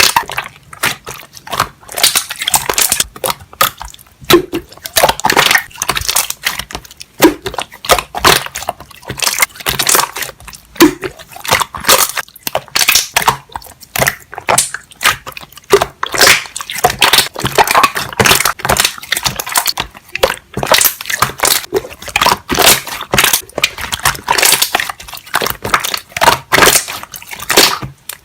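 Slime being pressed and worked by hand, its trapped air bubbles popping in quick, irregular crackles and clicks.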